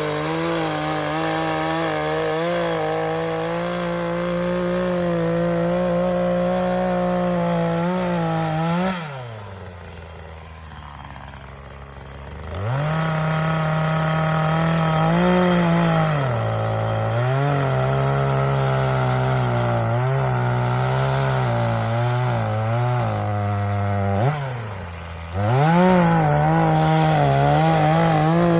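Gasoline chainsaw cutting dead pine wood under load. Its engine drops to idle about nine seconds in and again near the end, each time revving back up into the cut.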